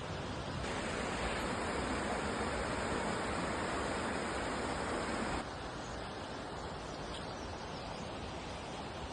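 Steady rush of falling water from a waterfall. It drops suddenly to a quieter rush about five seconds in.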